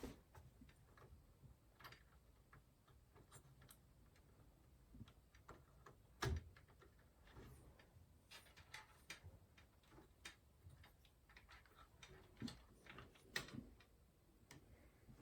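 Scattered light clicks and taps of small hardware and a PC case's panels being handled during assembly, at an irregular pace, with one louder knock about six seconds in.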